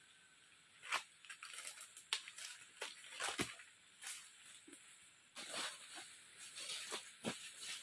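Irregular rustling and crackling with sharp clicks and snaps, a dozen or so short bursts.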